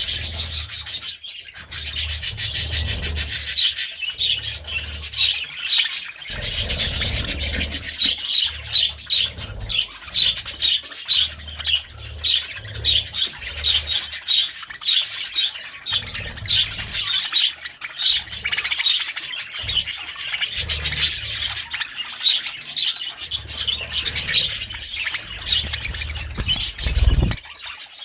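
Budgerigars chattering: a steady run of rapid, high chirps and warbles.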